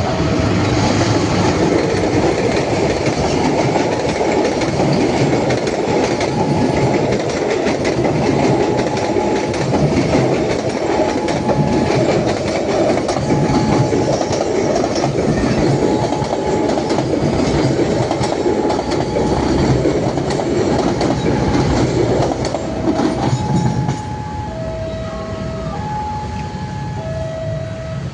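A train running past close by, its wheels clattering loudly over the rail joints. A two-note alarm alternates between a higher and a lower tone through it, more regularly in the second half, and the rumble eases slightly near the end.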